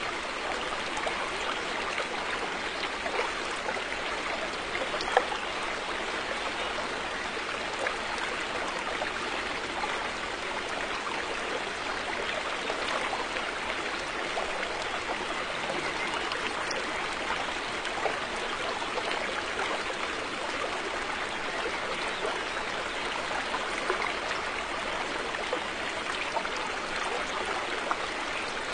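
River water flowing steadily over rocks, a continuous rushing babble with small splashes and trickles.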